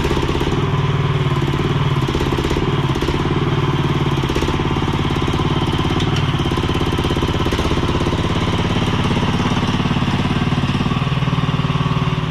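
Mini skid steer's engine running steadily under work, its note shifting slightly near the end.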